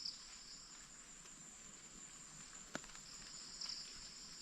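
Crickets and other insects: a steady high insect tone with a trilling that fades in and out, and a single faint click a little under three seconds in.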